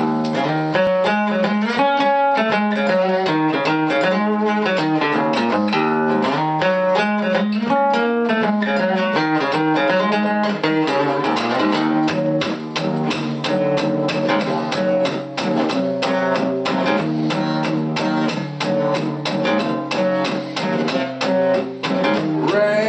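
Guitar playing the instrumental intro of a song: plucked notes in a steady rhythm over changing chords.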